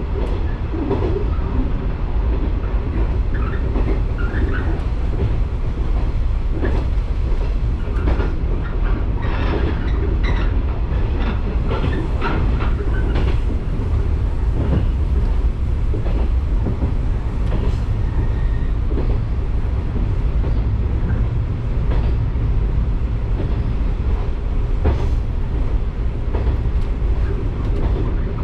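Electric commuter train running along the track, heard from inside the rear cab: a continuous low rumble of wheels on rails, with irregular clicks and knocks from rail joints.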